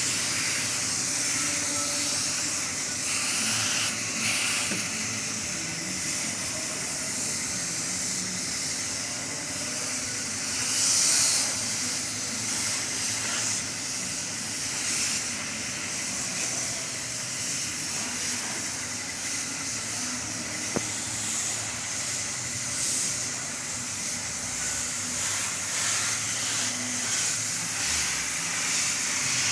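Engine-coating spray hissing in long, steady passes over an engine bay, swelling and easing as the spray is worked, with short breaks between passes.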